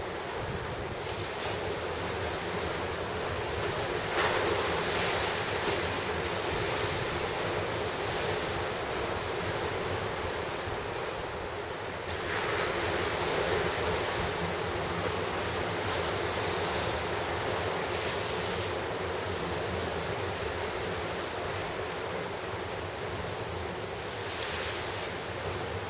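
Ocean surf crashing on the shore in a continuous roar, with two louder waves breaking about four seconds in and again about twelve seconds in. Wind buffets the microphone.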